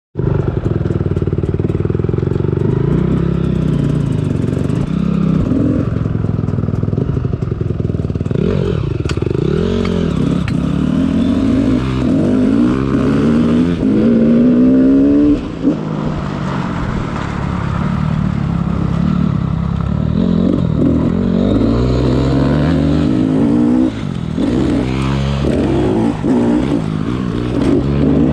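Motocross dirt bike engine being ridden hard, its pitch repeatedly climbing and dropping as the rider works the throttle and shifts gears, with a short drop-off midway.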